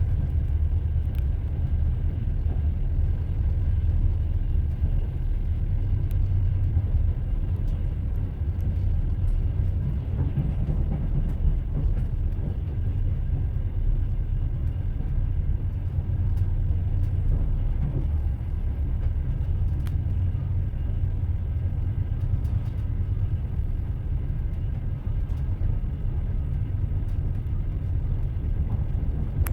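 Train running on the rails: a steady low rumble of the wheels and carriage, with occasional faint knocks.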